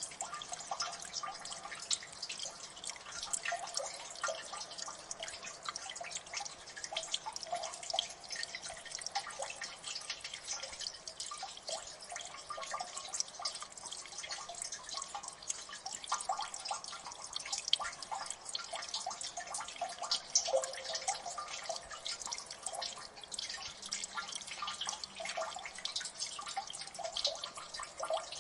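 Many water drips falling in a gully, a dense, uneven patter of small plinks and clicks with no pause.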